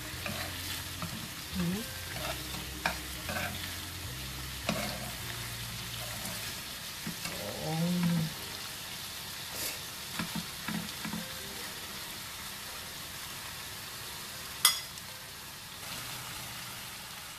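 Tempe and green chillies sizzling in a frying pan, their soy-sauce coating reduced and thickened, while a metal spoon stirs and scrapes through them with scattered clicks against the pan. Near the end there is one sharp knock, and the steady sizzle continues.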